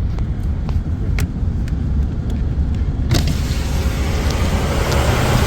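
Car driving on wet roads in heavy rain, heard from inside: a steady low road and engine rumble with scattered sharp ticks, then a louder hiss of rain and tyre spray that comes in suddenly about three seconds in.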